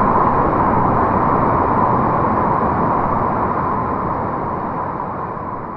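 Steady rush of whitewater, gradually fading out.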